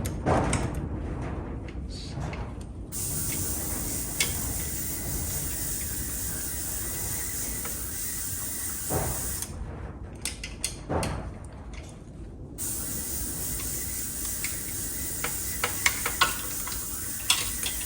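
Steady hiss, with light clicks and taps of small metal parts being handled, most of them near the end.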